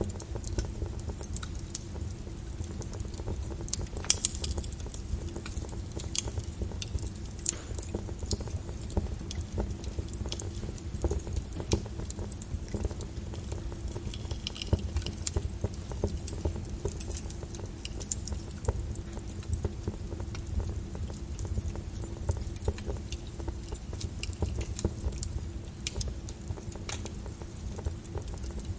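Wood fire in a fireplace crackling, with frequent irregular pops and snaps over a low steady rumble; one sharper pop about four seconds in.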